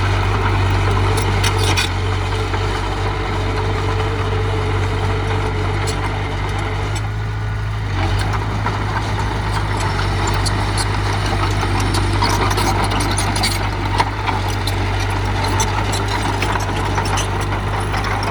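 Heavy machine's diesel engine running steadily with a deep hum, with a few sharp knocks from the machinery.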